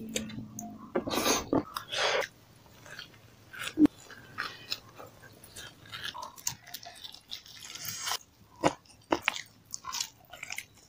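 A person chewing and biting into food, with mouth clicks and short crunchy bursts at irregular intervals.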